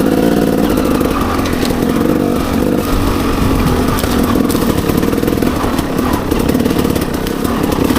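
Enduro dirt bike engine running steadily under throttle while riding a trail.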